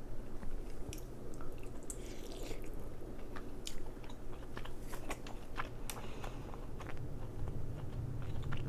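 Close-miked chewing and biting on crab, with many scattered sharp clicks and short crunches over a faint steady low hum.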